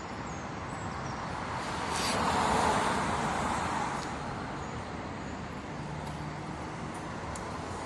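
Road traffic noise, with one vehicle passing and swelling louder about two to three seconds in.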